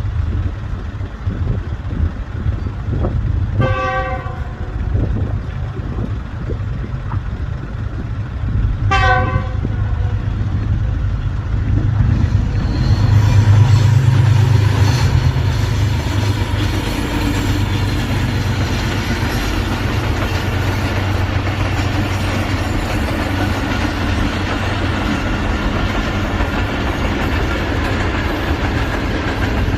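Pakistan Railways GEU-class diesel-electric locomotive sounding two short horn blasts about five seconds apart over its low engine hum. About twelve seconds in the engine grows louder as the train pulls away, and the rumble of the train rolling on the rails follows.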